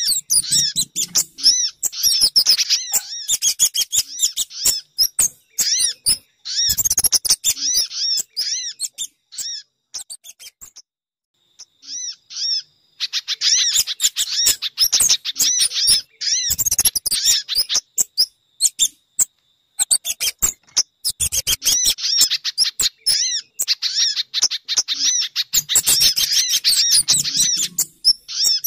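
Bird-lure recording of sogon, pijantung (spiderhunter) and kemade calls: rapid strings of high chirping notes in bursts several seconds long, with short pauses between them.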